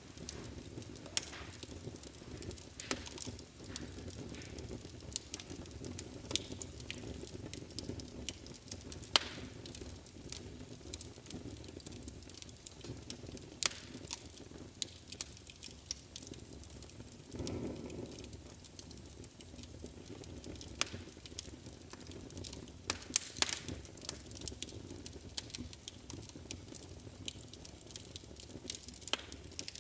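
Fire burning in a fireplace, crackling with frequent sharp pops over a low steady rush of flame. A little past halfway the flames briefly swell louder.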